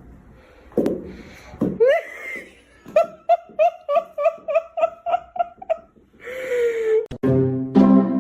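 A quick run of about a dozen short pitched calls, about four a second, followed by one longer falling wail; music with steady notes starts near the end.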